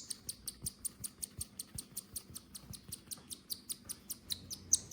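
Parrot chick's rapid, machine-gun-like begging chirps as it is hand-fed, an even run of about eight short high chirps a second.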